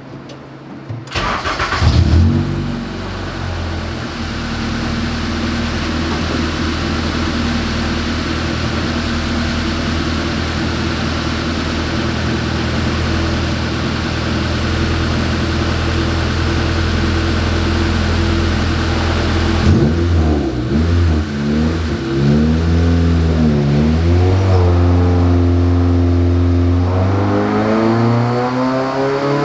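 Honda K24 four-cylinder engine starts about a second in and settles into a steady idle. About two-thirds of the way through its revs rise and fall in a few throttle blips, and near the end the revs begin to climb steadily.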